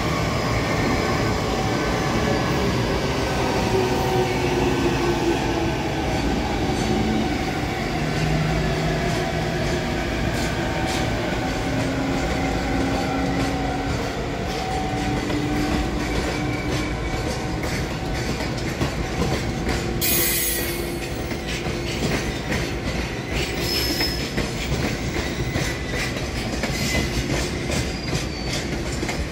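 Freight train of tank wagons behind a JR Freight EF210 electric locomotive rolling past, the wheels clacking over rail joints over a steady rumble. Long tones slowly fall in pitch through the first half, and the clacks grow sharper in the second half.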